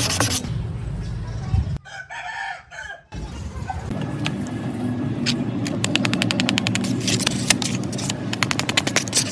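A rooster crowing once, about two seconds in. After it comes a steady mechanical running noise with rapid clicking.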